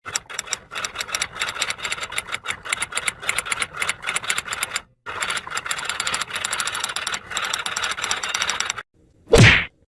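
A fast, dense run of mechanical clicking and rattling that breaks off for a moment about halfway and stops near the end. It is followed by a single short, loud sound effect that sweeps down in pitch.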